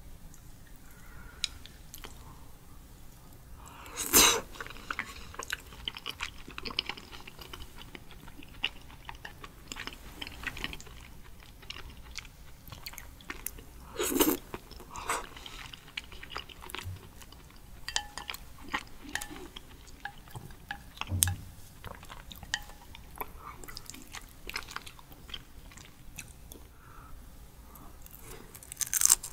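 Wet mouth sounds of eating raw sea urchin roe and, near the end, raw sweet shrimp: soft chewing and small smacking clicks, with three louder bites as food goes into the mouth, about 4, 14 and 29 seconds in.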